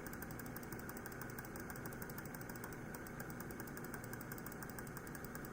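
Steady whir of desktop PC cooling fans running on the open bench, with a faint, fast, even high ticking over it.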